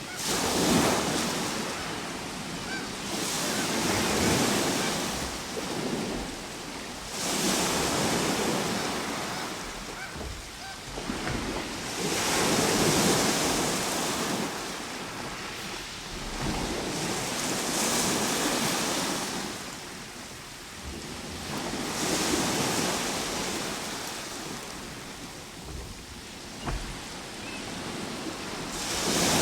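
Ocean waves breaking on a shore, each surge swelling and washing out every four to five seconds over a steady hiss of surf.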